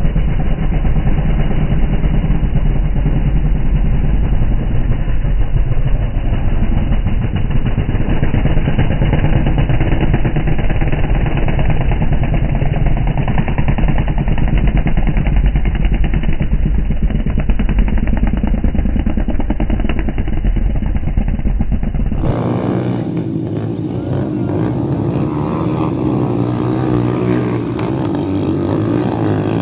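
Motorcycle engines running, with a heavy low rumble. About three-quarters of the way through the sound switches abruptly to a clearer, higher engine note.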